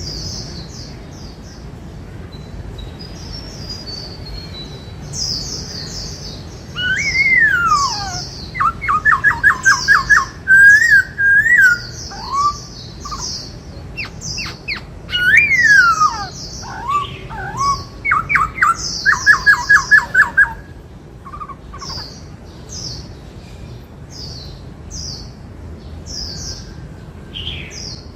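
Black-throated laughingthrush singing: loud whistled phrases with falling slurs and fast runs of repeated notes, in two bursts a few seconds apart, over steady high-pitched chirping.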